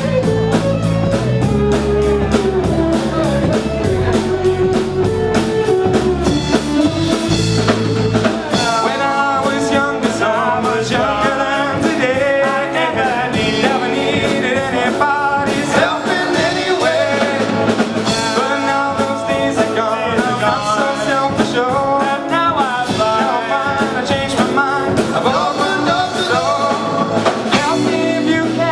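Live rock band playing through a PA system, with drums, electric guitar and bass; a lead vocal comes in about eight seconds in.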